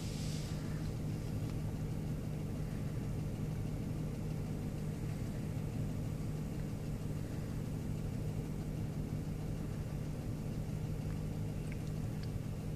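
Car engine idling, heard as a steady low hum from inside the cabin.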